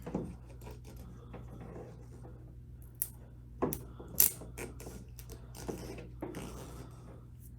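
Duct tape being pulled off the roll and pressed onto a metal coffee can: scattered crackling and rustling with a few sharp taps about three to four seconds in.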